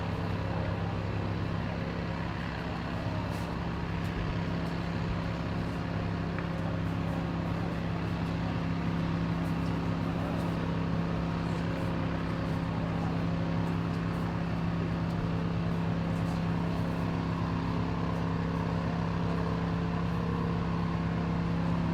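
Engine of a fire engine running steadily at a constant pitch, a continuous drone that grows slightly louder near the end.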